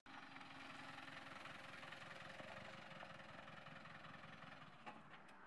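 Faint steady engine hum of a Land Rover Defender 4x4 moving slowly.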